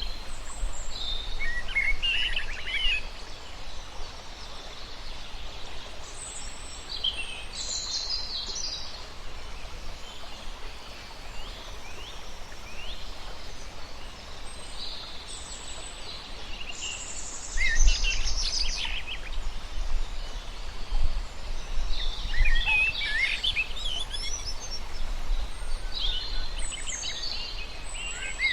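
Several wild birds singing and chirping in short phrases every few seconds over a steady low rumble, with a cluster of song about two-thirds of the way in and again near the end.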